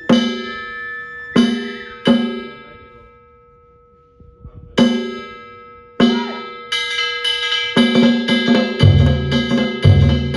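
Danjiri festival narimono being rehearsed: a few separate metallic strikes that ring on at several pitches, then faster strikes building up, with a deep taiko drum joining on a steady beat near the end.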